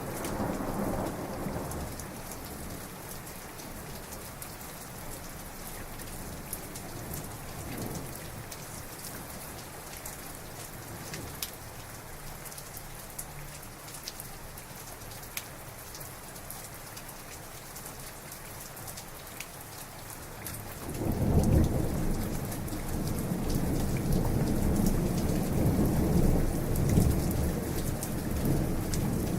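Heavy rain falling steadily with close drips, under rolling thunder: a short rumble at the start, then a long, loud rumble of thunder building about two-thirds of the way through and rolling on to the end.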